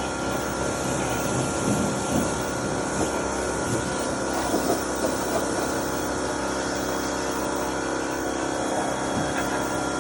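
Pressure washer running steadily, its motor humming under the hiss of the water spray, which spatters louder now and then as the jet hits the truck's frame and underside.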